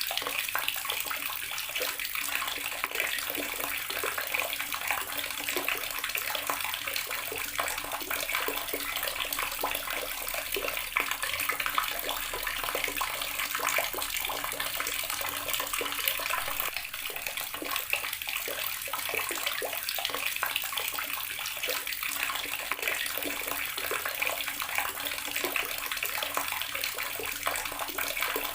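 Water tap running steadily, the stream splashing continuously with a dense, even patter.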